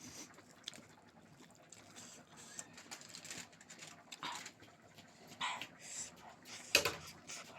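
Close-up eating sounds: a person chewing and smacking food, with scattered short clicks and a sharp clack near the end.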